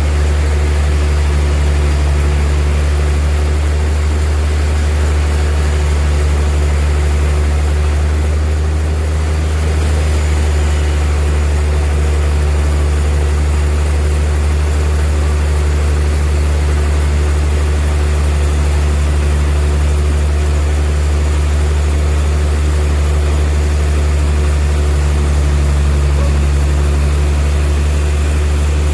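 Sawmill bandsaw machinery running steadily: a loud, constant low drone with a steady hum over it, easing slightly about nine seconds in.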